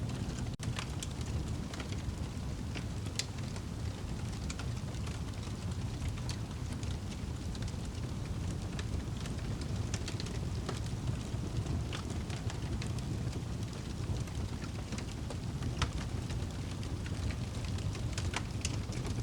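Wood fire burning in a fireplace: a steady low rush of flame with scattered crackles and pops from the burning wood. There is a momentary gap in the sound about half a second in.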